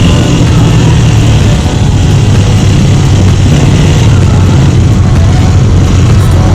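Motorcycle engine running steadily while riding, with rushing wind noise.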